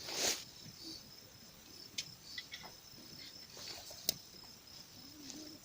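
Insects chirring steadily in a thin high tone, with a short rustle just after the start and a few sharp clicks about two and four seconds in.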